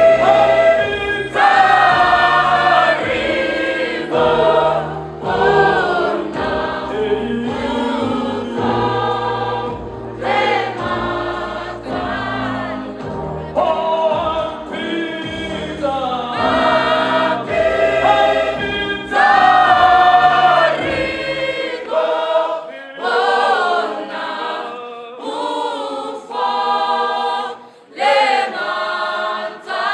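Choir singing a gospel hymn over a low bass accompaniment, which drops out about two-thirds of the way through, leaving the voices unaccompanied.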